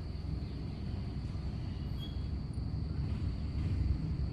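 Steady low outdoor background rumble with a faint, steady high-pitched whine over it.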